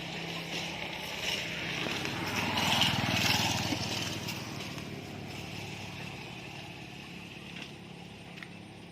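Suzuki Satria's single-cylinder two-stroke engine with an EL5 racing exhaust running; the sound swells to a peak about three seconds in, then slowly fades.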